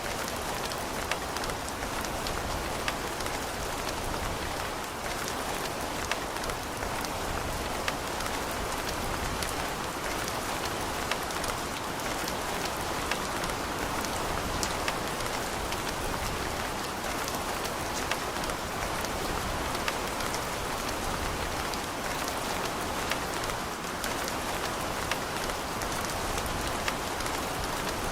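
Steady rain falling and pattering on a surface, with many small sharp drop ticks over an even hiss.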